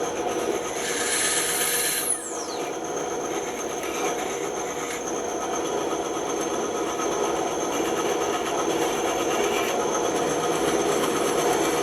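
Bandsaw running steadily and cutting through wood, with a high whine that slides down in pitch about two seconds in.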